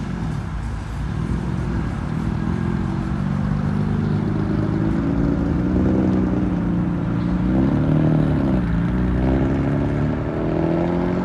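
Car engine running while driving, its note climbing steadily, rising and falling about eight seconds in, then climbing again as the car accelerates.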